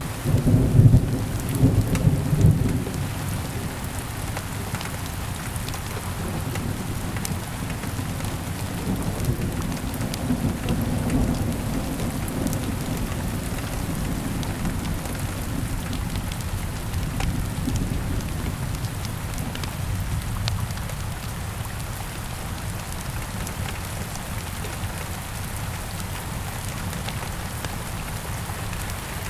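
Steady rain falling, with a low roll of thunder rumbling through the first few seconds before the rain carries on alone.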